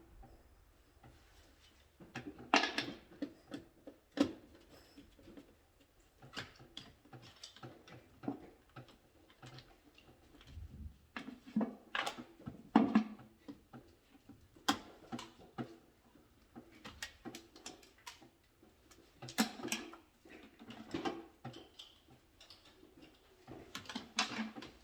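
Irregular clicks, taps and knocks of hand work on an electrical wiring board, with the loudest knocks about two and a half seconds in, near thirteen seconds in, and near twenty seconds in.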